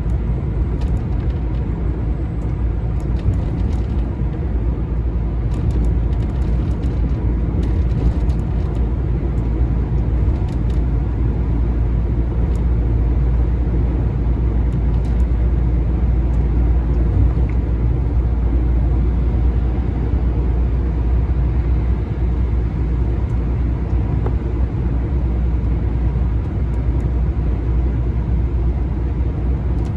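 Lorry's diesel engine and road noise heard from inside the cab: a steady low rumble while driving, climbing a slight uphill.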